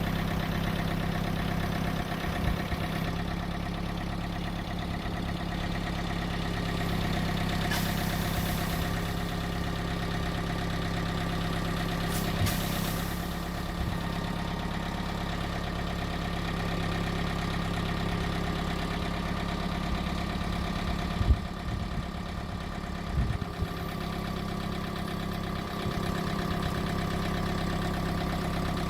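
An engine running steadily at idle, with a few short knocks about two-thirds of the way through.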